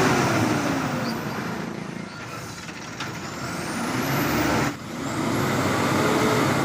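Hino 500 truck's diesel engine roaring under load. Its pitch sinks over the first couple of seconds, the sound drops out briefly about three-quarters of the way through, and then it climbs again.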